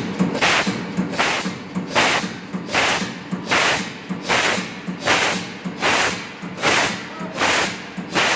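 MAN B&W 5S35ME large low-speed two-stroke marine diesel engine running slowly, with a regular hissing puff about every 0.7 seconds over a steady hum.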